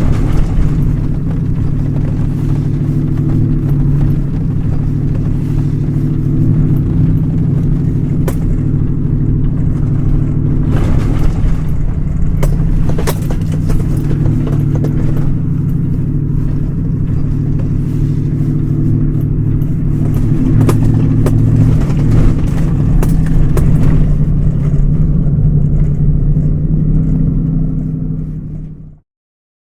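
A vehicle engine idling: a steady low hum with occasional light ticks, fading out near the end.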